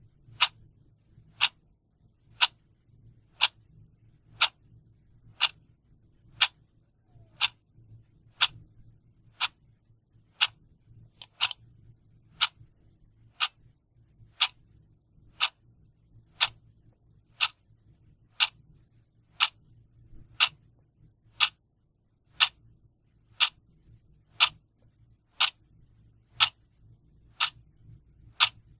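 A clock ticking steadily, about one tick a second.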